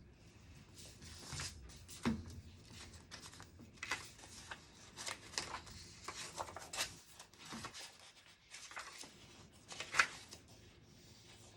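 Paper rustling and being handled at a study desk, with scattered small clicks and scratches and two louder knocks, about two seconds in and near the end.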